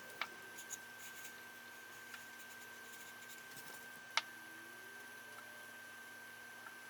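Faint small-room tone with a steady high whine, broken by two sharp clicks, one just after the start and one about four seconds in, with a few light ticks and taps between: small objects handled on a work surface.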